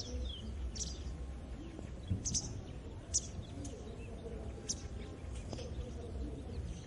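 Small birds chirping in short, separate high calls about once a second or so, over a steady low rumble of rural background noise.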